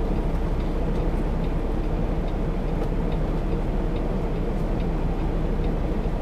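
Semi truck's diesel engine running low and steady while the rig reverses slowly, heard from inside the cab, with a few faint scattered ticks.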